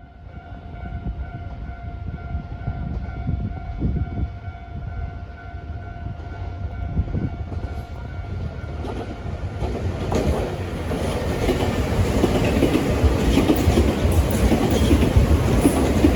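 Nankai Railway electric train, a 6000 series coupled with a 6200 series set, approaching and running past on the line. Its wheel rumble and clickety-clack over the rail joints grow steadily louder, with faint steady tones in the first half that fade away.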